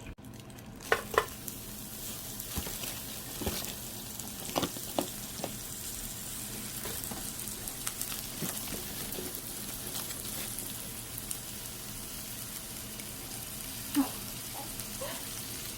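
Thin slices of beef brisket sizzling steadily in an electric multicooker, with a few brief clicks about a second in, around four to five seconds in, and near the end.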